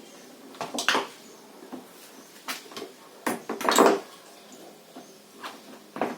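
Metal parts knocking and clattering as they are handled, in several separate knocks with the loudest cluster just after the middle.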